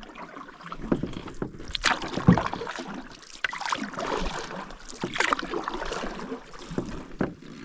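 Canoe paddles dipping and splashing in lake water, with irregular strokes and water swishing along the hull.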